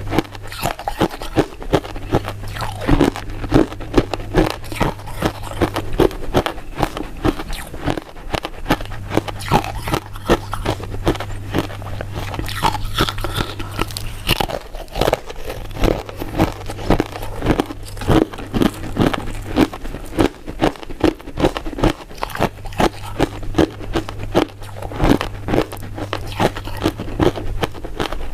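Biting and chewing of powder-coated mint chewy sweets: a steady run of short mouth clicks and bites, several a second.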